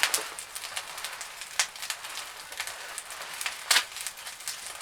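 A small wood fire of shavings burning in a fireplace: a steady hiss with scattered crackles, and two louder pops about a second and a half in and near the end.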